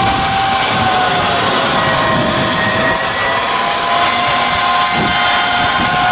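Loud, steady machinery noise with several whining tones that drift slowly up and down in pitch.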